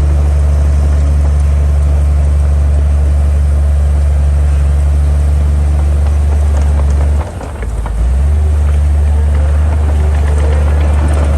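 Heavy diesel engine of earthmoving machinery running with a steady deep drone. About seven seconds in it briefly drops in level and pitch for under a second, then picks back up.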